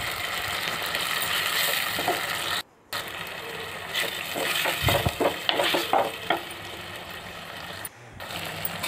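Shallots and tomatoes sizzling in oil in a clay pot while a wooden spoon stirs them, scraping and clicking against the clay, as the tomatoes are fried down. The sound drops out briefly twice, near 3 seconds and near the end.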